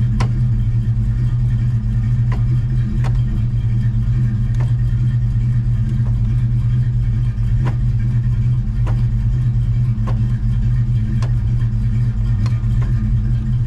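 Cold Dodge Dart engine running steadily in gear just after a cold start, with faint ticks about once a second. The owner calls it cold-natured because the aftermarket intake has done away with the exhaust crossover heat.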